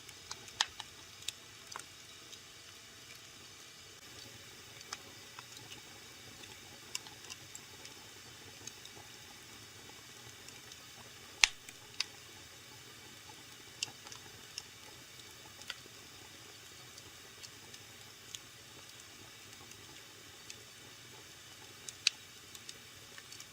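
Wood fire burning in a fireplace: a soft steady hiss with irregular crackles and pops, one sharp loud pop about halfway through and another near the end.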